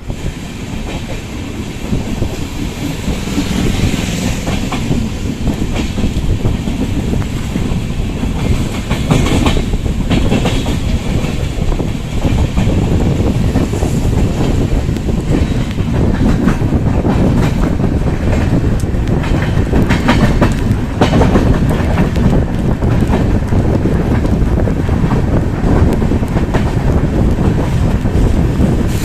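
Train running on the rails, its wheels clattering over the rail joints. The noise is loud and steady, building up over the first few seconds.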